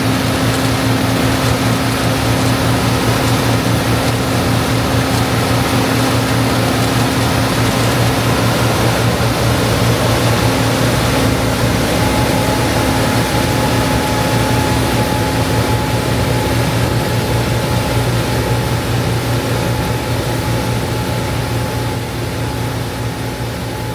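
John Deere 8820 Titan II combine running steadily under load while harvesting wheat, a loud even machine hum of engine and threshing works. A thin steady whine joins about halfway through, and the sound eases off slightly near the end.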